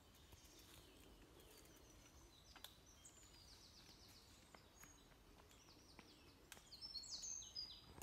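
Faint birdsong from small birds: scattered high chirps and short trills, busiest near the end.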